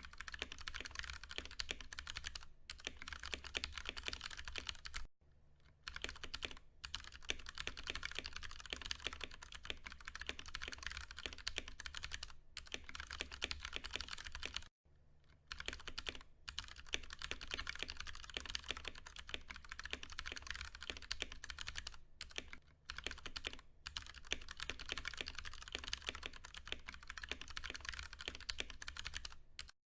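Typing on a Ducky One 2 Mini mechanical keyboard with Cherry MX Brown switches: a fast, steady stream of keystrokes, with two brief pauses about five and fifteen seconds in.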